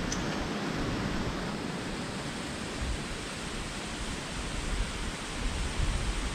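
Waterfall: a steady rush of falling water. Low rumbling swells near the end.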